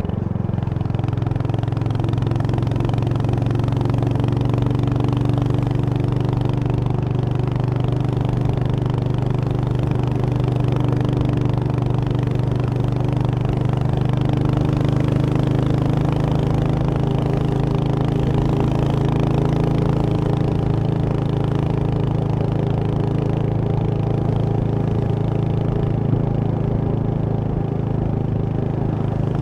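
Royal Enfield Hunter 350's single-cylinder engine running at a steady, even pitch with no clear revving.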